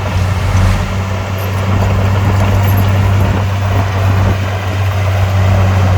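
Heavy diesel engine running steadily under load with a deep, constant drone.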